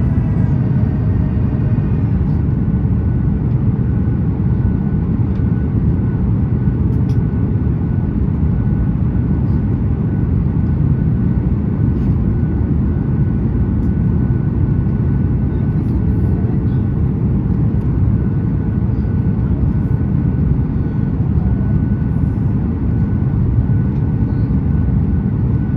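Steady cabin rumble of a Boeing 737 MAX 8 airliner: engine and airflow noise heard from inside the cabin. A faint engine whine steps down in pitch right at the start.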